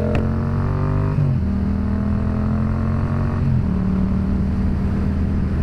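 Yamaha FZ-07's parallel-twin engine pulling under way, its pitch rising slowly, then dropping sharply a little over a second in as it shifts up and holding steady. Its note eases down again about three and a half seconds in.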